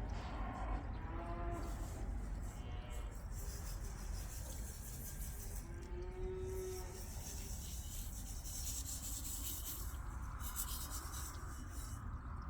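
Several bursts of rustling, scraping noise, typical of oil-cake pellet fertilizer being shaken out and scattered, with a short animal call about six seconds in and fainter ones near the start.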